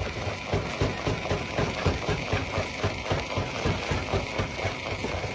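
Stone crusher running and breaking rock, a continuous dense, irregular clatter of knocks over the machine's low running sound.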